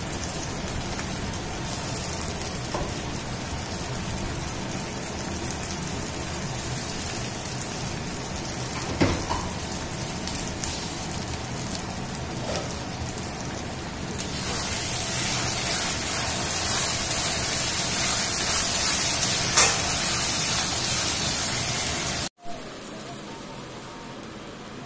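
Onions and spice paste frying in oil in a steel kadai: a steady sizzle that grows louder about two-thirds of the way through, with a couple of short sharp knocks. Near the end it cuts suddenly to a quieter sizzle of the cooked-down masala.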